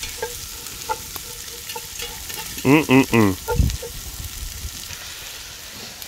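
Chopped onion and smoked pork fat sizzling in melted slanina in a cast-iron Dutch oven over a campfire, stirred with wooden sticks that tap now and then against the pot. About three seconds in a short burst of a person's voice, in three quick pulses, is the loudest sound.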